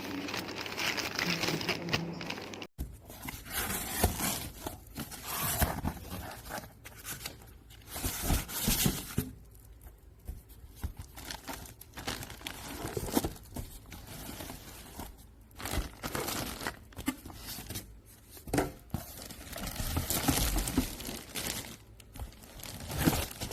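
Packaging being handled, with irregular crinkling, rustling and tearing and a few sharp crackles.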